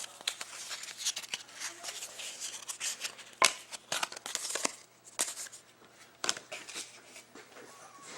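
Trading cards and pack wrappers being handled: a string of small clicks, slides and papery rustles, the loudest snaps about three and a half seconds in and again about five seconds in.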